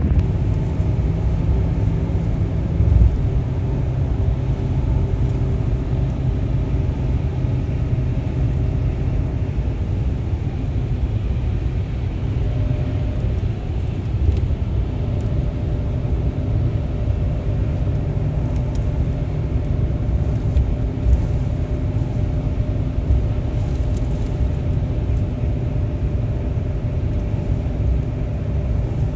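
Steady low rumble of a car driving, road and engine noise running evenly with a faint steady hum over it.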